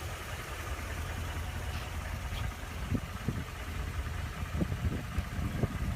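Low, steady rumble of an idling vehicle engine, with a few faint knocks.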